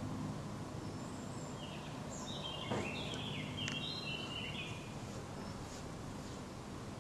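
A small bird chirping a short series of high notes in the middle of the clip, with a sharp click among them, over a steady low hum.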